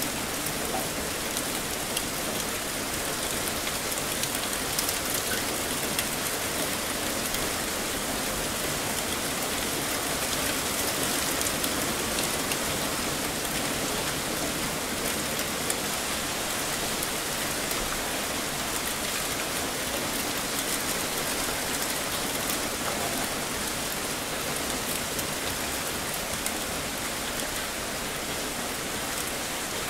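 Heavy rain falling in a steady downpour: a dense, even hiss of rain on surfaces, with scattered sharper drop hits.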